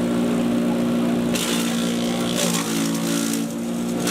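Patriot 1.5-HP electric chipper shredder running with a steady motor hum. About a second in, a harsher hissing noise joins for about a second and comes back near the end, and the hum drops in pitch for about a second in between.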